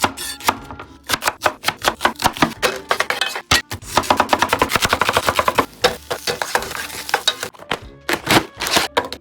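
Close-miked mukbang eating sounds: rapid, crisp clicking and crunching of chewing food, densest in the middle, over light background music.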